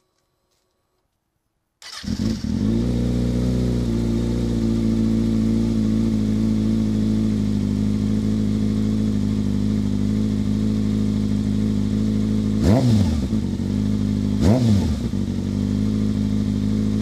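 Kawasaki Ninja ZX-6R's inline-four sportbike engine starting up about two seconds in and settling into a steady idle, then two short throttle blips near the end, the revs rising and falling quickly, with a third starting just as it ends.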